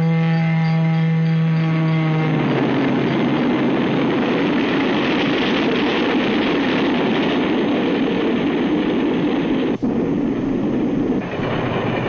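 A train horn held for about two seconds, then the steady rushing roar of a train passing close by, with a brief break about ten seconds in.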